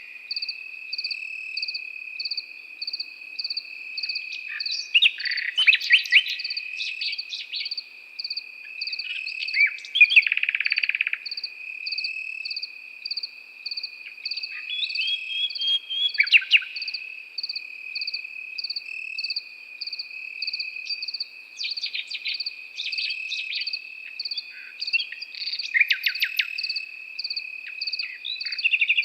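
Crickets trilling without a break, one as a continuous high trill and another chirping evenly about three times a second, while a nightingale sings short phrases of rapid notes every few seconds, the loudest a dense rattling phrase about ten seconds in.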